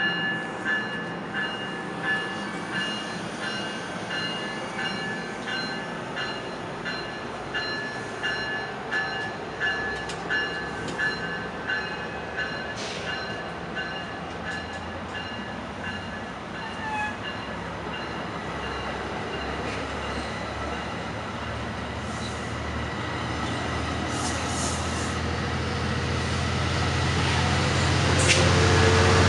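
Commuter train pulling out and rolling past, with a regular ringing pulse about once a second for the first half. A low diesel locomotive drone then grows steadily louder as the engine at the rear of the train draws near.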